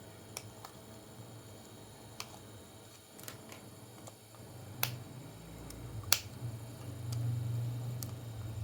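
Scattered sharp clicks and taps, the loudest about six seconds in, over a low hum that swells in the second half.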